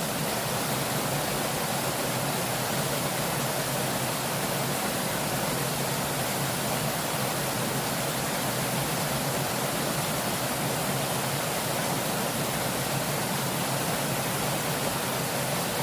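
Fast-flowing river water rushing steadily, an even hiss with no breaks.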